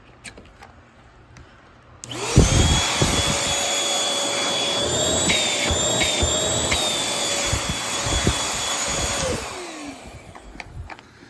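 Bissell Featherweight stick vacuum's motor, used as a hand vacuum, switched on about two seconds in and running with a steady whine, its pitch wavering briefly in the middle. It is switched off near the end and winds down with a falling pitch, after a few light handling clicks before it starts.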